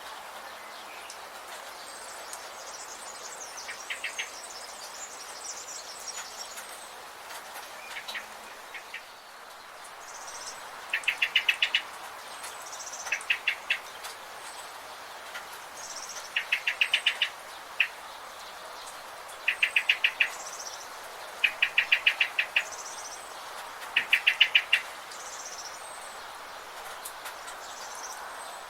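Forest birds calling over a steady background hiss: high chirps throughout, and from about a third of the way in, a short rapid trill repeated every two to three seconds.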